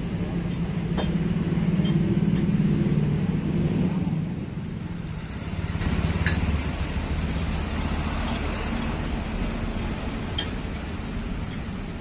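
Motor engines running, swelling over the first few seconds, then easing and settling to a deeper hum, with a few sharp knocks about one, six and ten seconds in.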